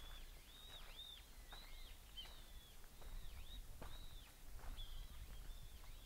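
A bird calling again and again in short, high, arched notes, about two a second, with a few faint footsteps on the path.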